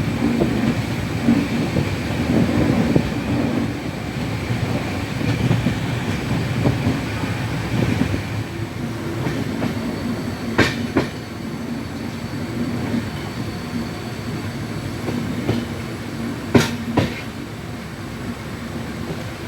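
Passenger train running on the track with a steady rumble. Twice, a pair of sharp clacks about half a second apart comes as the wheels cross a rail joint.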